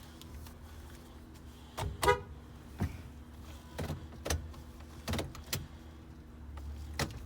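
2016 Honda Odyssey's 3.5-litre V6 idling with a low steady hum just after start-up, under a run of sharp clicks and knocks and a brief beep about two seconds in.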